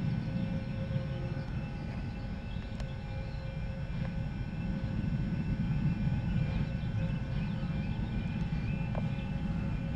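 A train's steady low rumble, with several steady whining tones above it.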